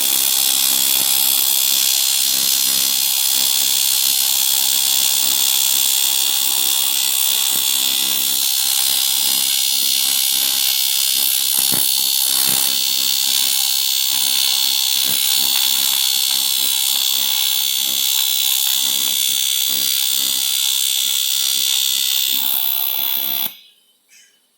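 AC TIG welding arc on aluminium, set at 74 amps, buzzing steadily with a harsh, high-pitched hiss; the arc cuts off suddenly near the end.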